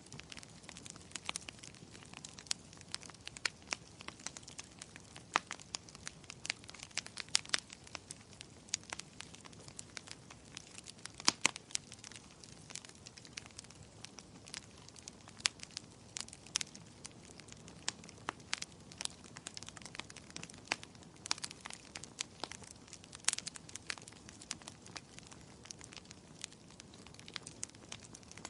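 Wood burning in a fireplace, crackling: irregular sharp pops and snaps over a soft steady hiss, with a few louder pops among them.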